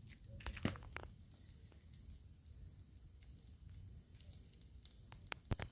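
A chorus of crickets trilling in a steady, high, fast-pulsing drone, broken by a few sharp clicks about half a second in and again near the end.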